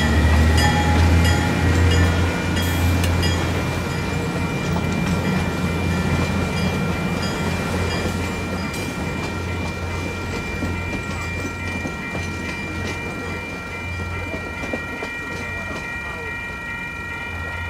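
A diesel locomotive and a passenger car pass over a grade crossing, the engine rumbling low and the wheels clattering on the rails. The crossing's electronic bells ring steadily throughout. The train noise fades after about eight seconds, leaving mostly the bells.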